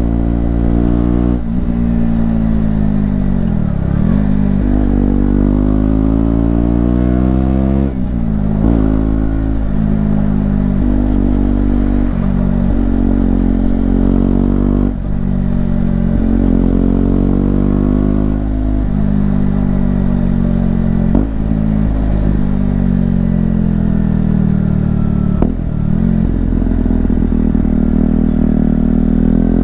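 KTM Duke 125's single-cylinder four-stroke engine under hard riding, heard through a microphone inside the rider's bag. The pitch climbs again and again and drops sharply at each gear change, with the revs falling away and rising again about four seconds in.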